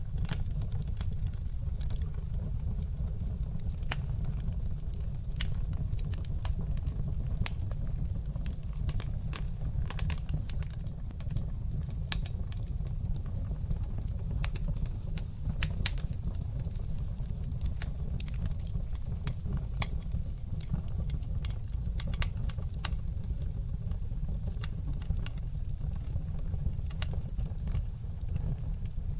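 Wood fire crackling in a fireplace, with frequent sharp pops and snaps at irregular intervals over a steady low rumble.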